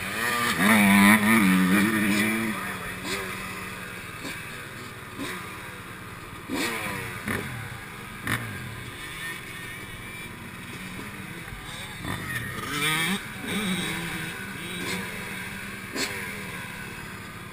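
Yamaha YZ125 two-stroke motocross engine revving hard and shifting, its pitch rising and dropping again and again, loudest about a second in. Wind rush and scattered knocks and clatter from the bike over the track run underneath.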